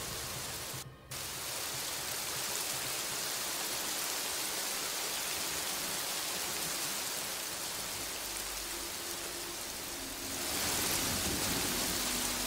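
Rain falling on open water: a steady, even hiss of drops striking the surface. It cuts out for a moment about a second in and grows louder near the end.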